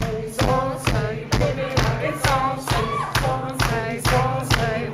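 Live band music with a steady beat a little over twice a second and sung vocal lines without clear words.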